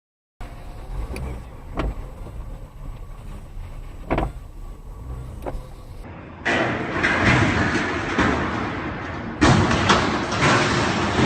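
Car driving: steady low engine and road rumble with a few sharp knocks. About six seconds in it gives way to louder, rougher road noise that jumps up again sharply near nine and a half seconds.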